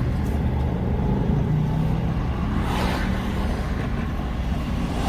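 A car's engine running steadily with road noise, heard while driving. The engine pitch rises briefly about a second and a half in, and another vehicle passes about three seconds in.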